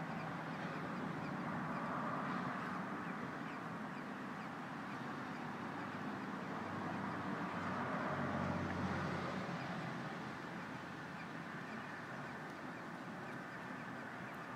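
Baby birds in the nest calling, a busy stream of many short, rapid cheeps over a steady hiss.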